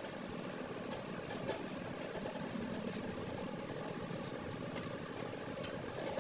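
A steady mechanical drone, like a motor or engine running, with a few faint clicks.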